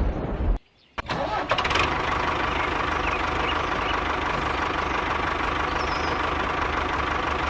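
After a brief drop to silence, an engine starts about a second in and then idles steadily with a fast, even chug.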